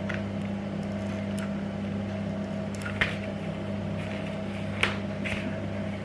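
A steady low hum runs under a few light clicks and taps, about five in all, from hands working rope with a hot glue gun.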